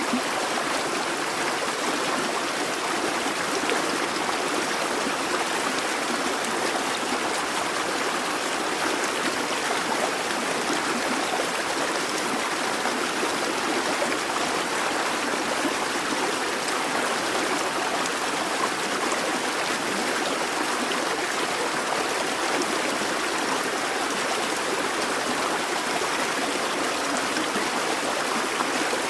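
Babbling brook: water running and trickling steadily over stones, an even, unbroken rush.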